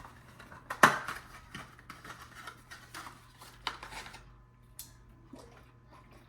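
Small hard clicks and knocks from handling a bottle of leather dye and its cap, with one sharp knock about a second in and lighter ticks after it.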